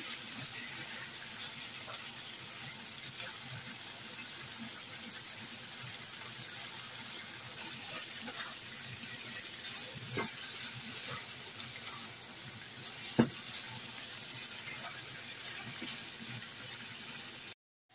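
Pork liver sizzling steadily as it is stir-fried in a nonstick pan, with scattered clicks of the spatula against the pan and one sharp knock about thirteen seconds in. The sound drops out briefly near the end.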